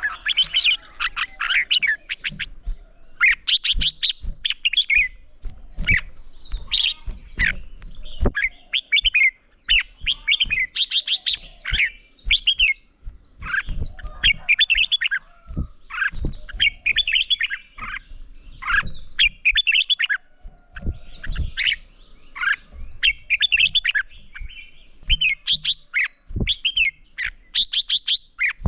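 Red-whiskered bulbuls singing competitive 'fighting' song: quick, chattering whistled phrases one after another with only short pauses, with faint low knocks in between.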